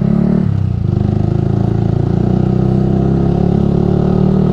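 Yamaha R15 V3's single-cylinder 155 cc engine running through a Ronin Musashi aftermarket exhaust as the bike is ridden at a steady speed. The engine note shifts briefly about half a second in, then holds steady.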